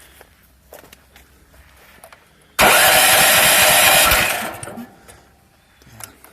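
A homemade sawmill's gasoline engine cranked by its electric starter: a sudden loud burst of cranking about halfway in that lasts about a second and a half, then fades away without the engine settling into a run. The engine fails to start because its fuel has been turned off.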